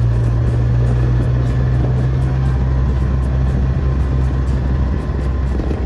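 Vehicle engine running steadily, heard from on board as a loud, even low hum that eases slightly near the end.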